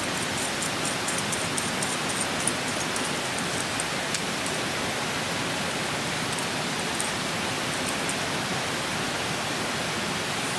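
Steady rushing of a clear stream, with a wood campfire crackling in small sharp pops, most of them in the first few seconds.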